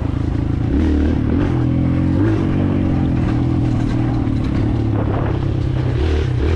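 Kawasaki KLX140L dirt bike's single-cylinder four-stroke engine being ridden, its pitch rising and falling with the throttle. The engine note dips briefly near the end, then picks up again.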